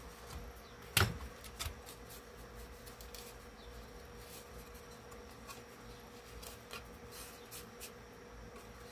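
Light scraping and tapping as old carpet glue is cleaned off a speaker cabinet's front, with a sharp knock about a second in. A steady buzzing hum runs underneath.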